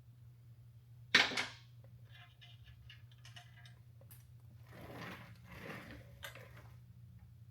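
A sharp metal clank about a second in, as a tool or part is set down, followed by light clinking of small metal parts and a stretch of scraping and handling, with a short click near the end.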